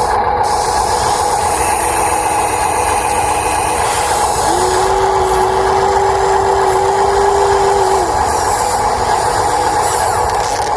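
Electric motors and plastic gearboxes of a radio-controlled Huina 1593 excavator whining steadily. A second, lower motor whine joins about halfway through, holds for about three seconds, then drops away.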